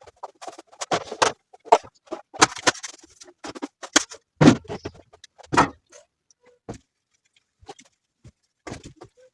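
A run of irregular knocks, clatters and short scrapes from objects being handled, busy for about the first six seconds and then dropping to a few faint ticks.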